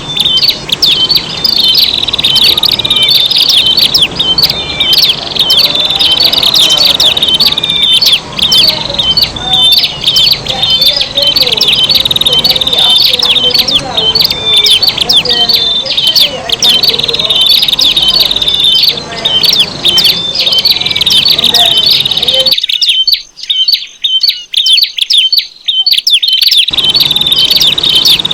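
Prinias (prenjak) calling hard, a dense unbroken run of quick, high, sharp chirping notes that overlap, as in a lure recording of an agitated group. The low background drops away for a few seconds near the end while the chirping carries on.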